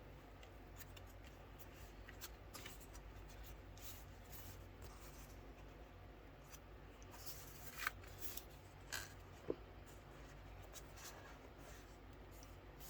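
Faint rustling, scraping and small clicks of product packaging being handled and unwrapped, with a louder rustle and tick about eight seconds in and a couple of sharp ticks soon after.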